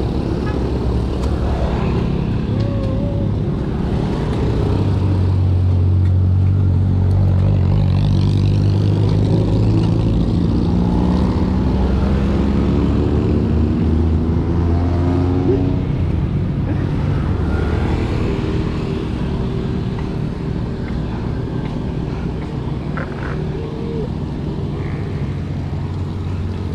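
Motor vehicle engine running close by, its pitch slowly rising and falling through the middle as it changes speed, over a steady rush of road and wind noise.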